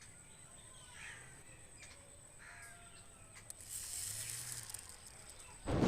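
Faint bird calls: a few short cries about a second and two and a half seconds in, over a faint steady high whine. A loud boom comes in near the end.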